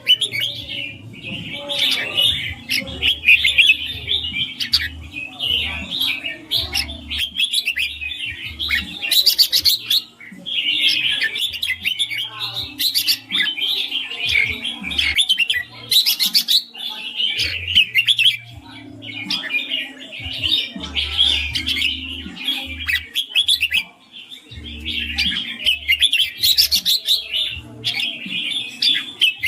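Red-whiskered bulbuls singing: a steady stream of quick, bright chirping phrases with a few short breaks, and a low hum that comes and goes underneath.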